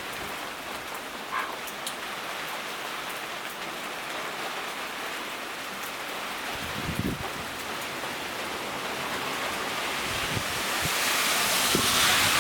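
Typhoon rain pouring steadily, with wind rising into a louder gust near the end and a few buffets of wind on the microphone.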